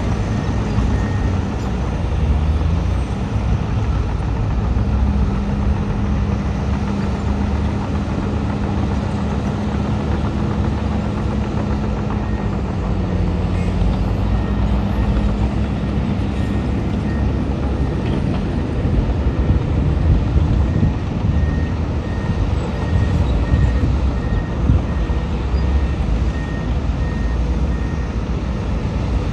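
Heavy earthmoving machinery, a bulldozer and dump trucks, running with steady diesel engine rumble. Over it a reversing alarm beeps about twice a second, briefly at first and again for a long stretch from about halfway through.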